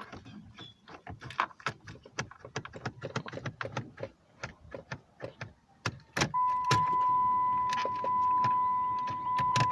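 Irregular clicks and key rattles in a 2008 Dodge Challenger R/T's cabin. About six seconds in, a steady high electronic warning tone comes on and holds for over three seconds. The engine does not crank.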